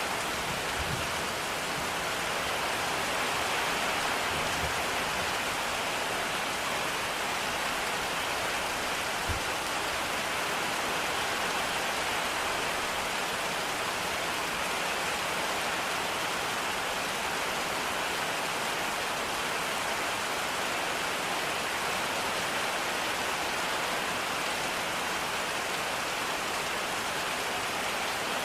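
Steady rain falling, an even hiss of drops, with a few soft low knocks in the first ten seconds.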